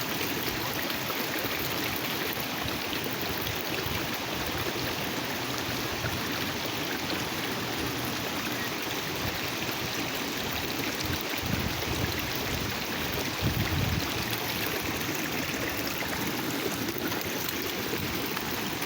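Steady rushing of a flowing stream, with two brief low rumbles partway through.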